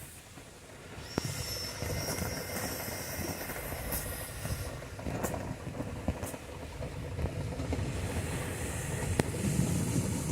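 Blizzard wind rushing and buffeting, a steady rumbling roar, with a few sharp knocks scattered through it.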